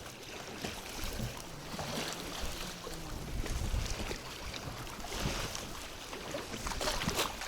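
Wind gusting over the microphone, with water lapping against a small boat.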